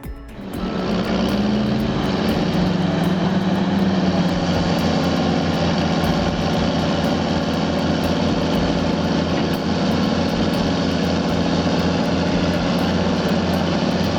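A loud, steady engine drone with a rapid low pulsing, starting about half a second in.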